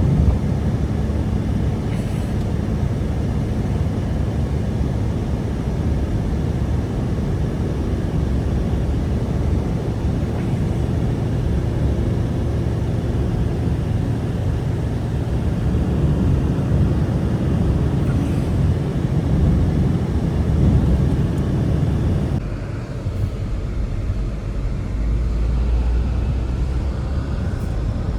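Strong blizzard wind blowing steadily, a deep rumbling noise that grows duller about twenty-two seconds in.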